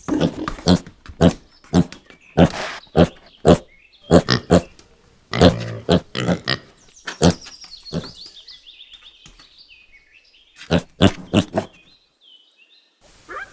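Piglet grunting in short calls, about two a second, which stop shortly before the end.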